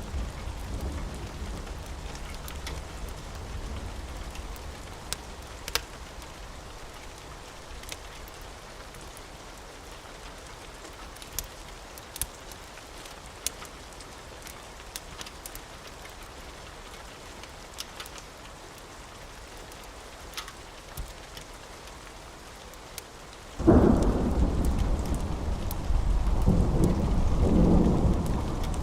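Steady rain with scattered sharp crackles. A low rumble of thunder dies away at the start, and about 24 seconds in a sudden loud thunderclap breaks and rolls on to the end.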